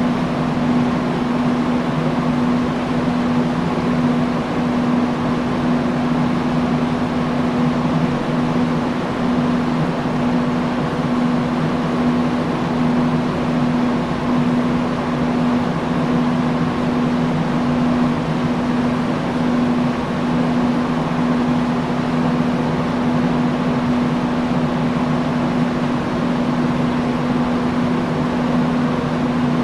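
Industrial fan running steadily: an even rush of air with a constant low motor hum.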